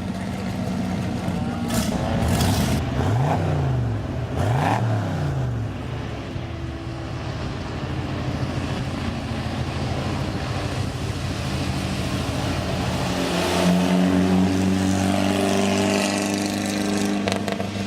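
Antique race car engines running. An engine is revved up and back down twice in quick succession a few seconds in, and another engine runs steadily and more loudly from about two-thirds of the way through.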